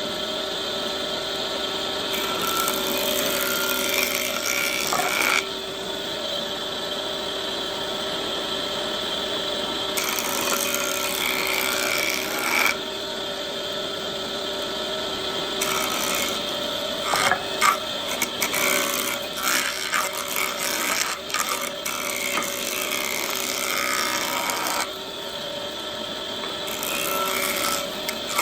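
Electric woodworking power tool running with a steady whine while working shisham wood. The high hiss of the cut comes and goes in sudden steps, with a cluster of sharp clicks and knocks about two-thirds of the way through.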